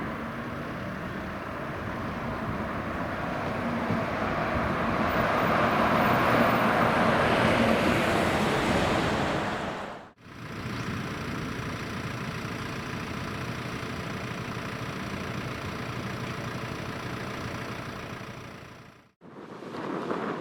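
Road vehicle noise: a vehicle swells louder and fades away as it goes by. After a cut comes a steady run of engine and road noise with a faint high whine, then another cut near the end.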